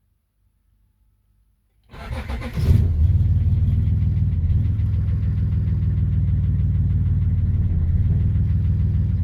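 1984 Oldsmobile 4.3 L V6 diesel engine cranking briefly about two seconds in, catching within a second and then idling steadily. It is a start after the glow-plug wait light, on freshly replaced fuel filter and fuel hoses with a new water separator.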